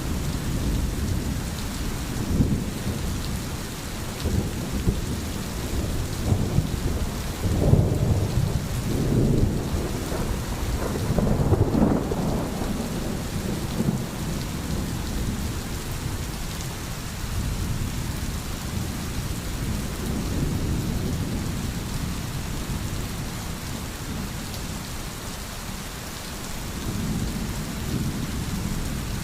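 Steady heavy rain falling, with low rumbles that swell up several times, loudest about 8 and 12 seconds in.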